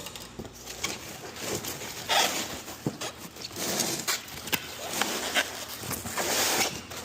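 Cardboard box and packing material rustling and scraping, with scattered clicks and knocks, as a turbocharger is unpacked.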